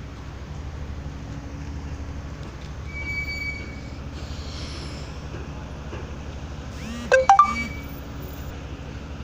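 Watercraft engine running steadily with a fast, even throb. About seven seconds in there is a brief, loud sound whose pitch slides.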